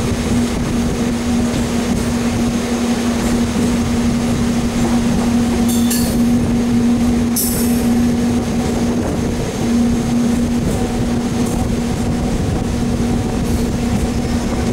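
MEMU electric multiple-unit train pulling away from a station, heard from its open doorway: a continuous rumble of wheels on the track under a steady hum. A few short sharp clicks come about six and seven seconds in.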